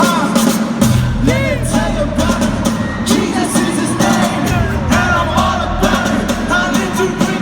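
Loud live band music with singing; bass and drums come in about a second in and carry on under the vocal line.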